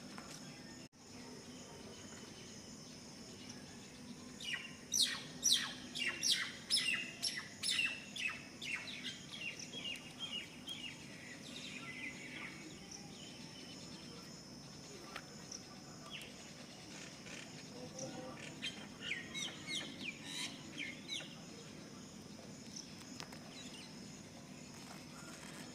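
A bird singing: a long run of quick chirps, each stepping lower in pitch, that fades out after several seconds, then a shorter run of chirps later on. A thin steady high tone and a low hum carry on underneath.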